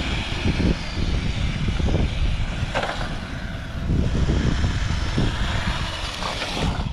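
Kyosho Blizzard RC tracked snow plough driving, its small electric motor whining up and down in pitch with the throttle over a dense low rumble from the drive and tracks. The sound cuts off suddenly at the end.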